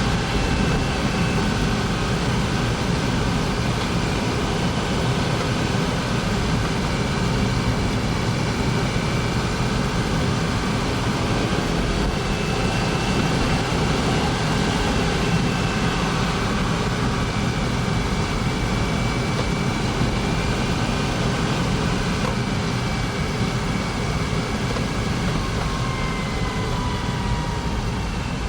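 Honda S660's small turbocharged three-cylinder engine running steadily: a continuous low drone with faint whining tones that drift slowly in pitch.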